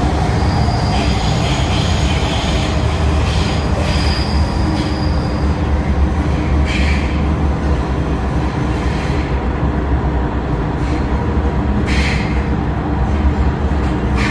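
MTR M-Train electric multiple unit running on the line: a steady low rumble with high-pitched wheel squeal in the first few seconds, and brief hissing surges around the middle and near the end.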